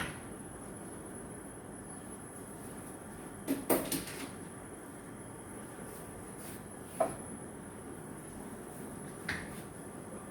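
A few sharp kitchen knocks and clatters, a quick cluster about four seconds in, another at about seven seconds and a lighter one near the end, over a steady low hiss.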